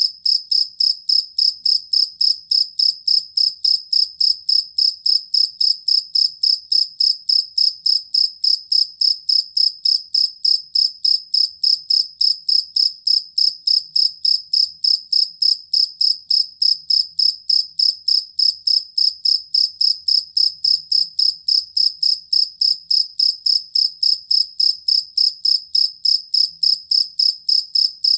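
Field cricket (jangkrik kalung) chirping steadily, with short, evenly spaced chirps at about three a second in a high, pure pitch.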